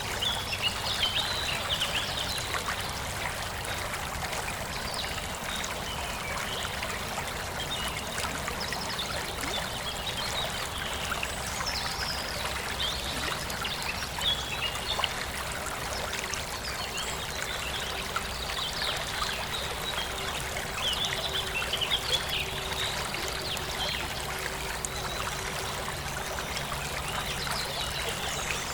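Forest stream flowing steadily over rocks, with birds chirping now and then in quick high notes.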